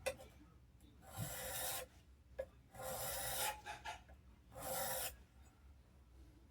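Steel plane blade rubbed across a sharpening stone in three separate gritty strokes, each under a second long, with a light click before the first and second strokes.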